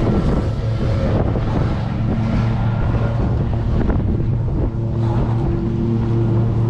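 Strong headwind buffeting the microphone of a running man's phone, a loud continuous rumble with a steady low hum underneath.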